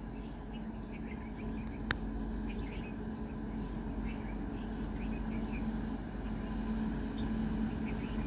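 Indian Railways electric locomotive and passenger train approaching along the track: a steady low hum and rumble growing gradually louder as it nears. Small birds chirp over it, and there is one sharp click about two seconds in.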